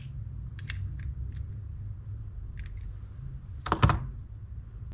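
Small metal spinning-reel parts and tools being handled during reassembly: a few light clicks, then a louder short clatter a little before four seconds in, over a steady low hum.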